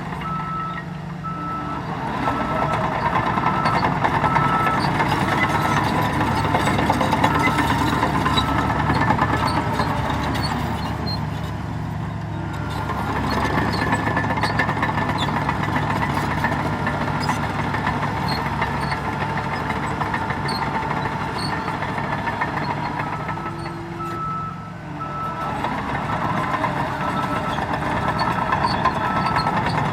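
Heavy diesel earthmoving machinery running under load, its engine swelling and easing several times. A reversing alarm beeps at about two beeps a second through the first several seconds and again near the end.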